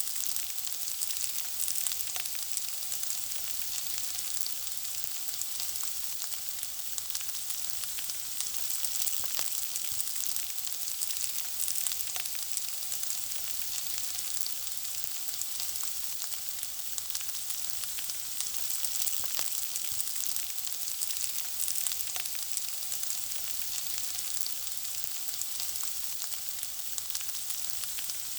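Food frying in a pan, sizzling steadily with a dense, constant crackle of small pops.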